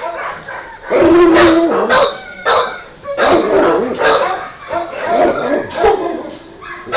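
Dogs barking repeatedly, loud short barks coming in quick succession, with the longest and loudest about a second in.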